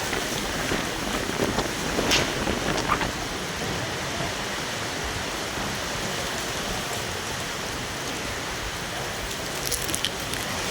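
Heavy storm rain falling steadily, with a few sharp taps about two seconds in and again near the end.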